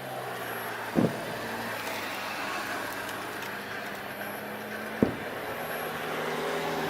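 Two fireworks shells bursting with sharp booms, about a second in and again about five seconds in, over a steady background hum.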